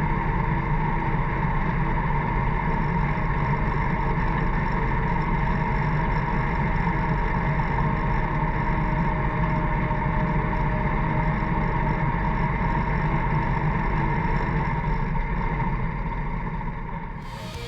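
Engine of a 1940s Allis-Chalmers motor grader running steadily, dipping slightly in level near the end.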